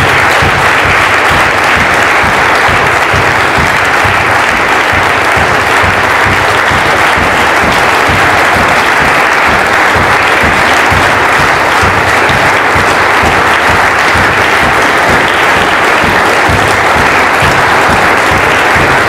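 A crowd applauding steadily in one long, unbroken round of applause.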